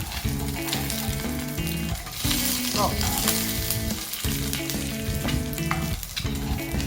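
Food frying and sizzling in a pan over a wood fire, a steady sizzle with small crackles, under background music with a repeating rhythmic pattern.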